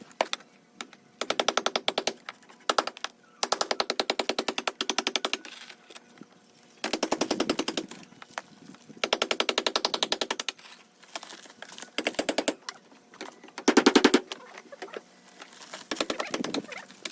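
A power tool hammering in repeated bursts: a fast, even stream of impacts held for a second or two at a time, about eight bursts, with a short, louder burst near the end.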